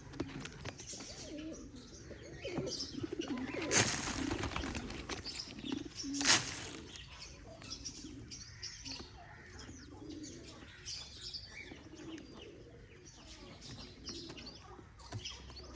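Pigeons cooing repeatedly, with two loud bursts of wing flapping about four and six seconds in, the second the louder.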